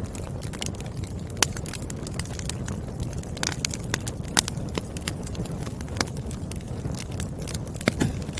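Burning firewood crackling: a steady low rush of the fire with irregular sharp pops and snaps of the logs, the loudest snaps about a second and a half in and about four and a half seconds in.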